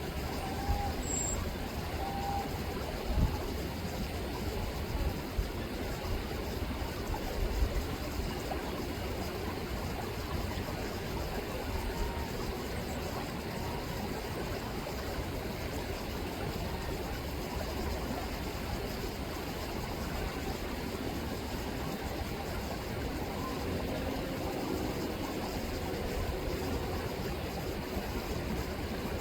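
Steady rippling and rushing of river water, with a few faint short bird calls in the first few seconds and a few low thumps on the microphone about three and seven seconds in.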